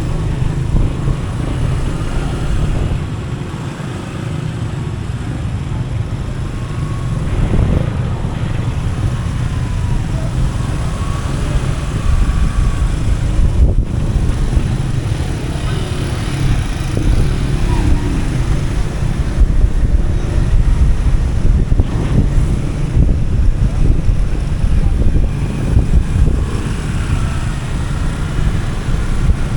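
Riding a motorbike: wind rushing over the microphone, heavy and rumbling, with the bike's engine running underneath and faint rises and falls in pitch.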